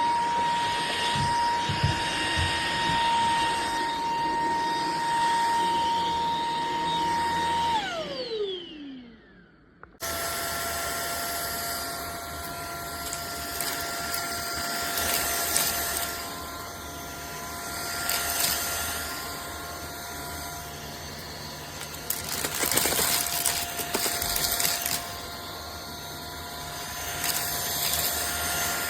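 Cordless stick vacuum cleaner's motor running with a steady high whine. About eight seconds in it is switched off and the whine falls in pitch as the motor spins down. After a brief quiet, a vacuum motor whine at a lower pitch starts suddenly, with a few short louder rushes of air noise.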